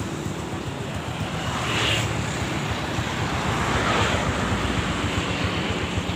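Motorcycle running on the road, its engine faint under heavy wind rushing over the microphone.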